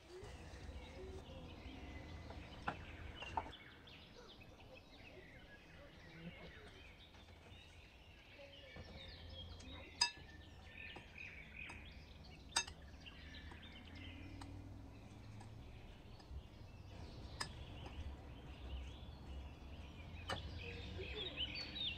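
Small birds chirping throughout over a faint, low steady rumble, with a few sharp clicks or clinks.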